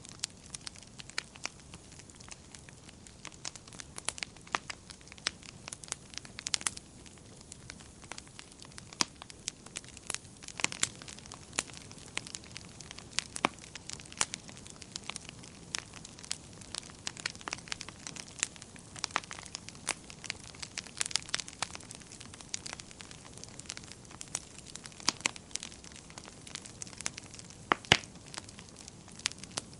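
Wood fire crackling: a soft steady hiss with irregular sharp pops and snaps, one louder pop near the end.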